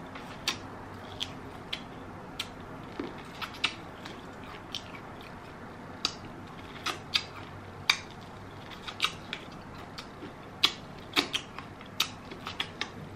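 Close-miked eating sounds: chewing, with short sharp wet clicks and smacks from the mouth coming at irregular moments, some in quick pairs.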